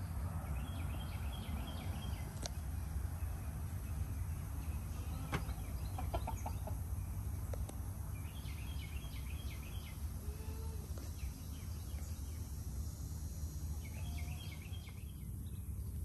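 Small birds chirping in short, rapid trills, heard in three bursts, over a steady low rumble, with a few light clicks.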